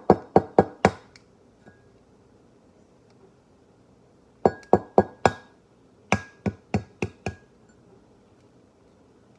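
An egg being tapped again and again against the rim of a mug to crack it: a quick run of sharp taps that stops about a second in, then two more short runs of taps near the middle.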